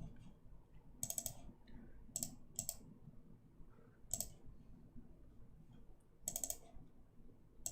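Computer mouse clicking: several short separate clicks a second or two apart, some in quick pairs.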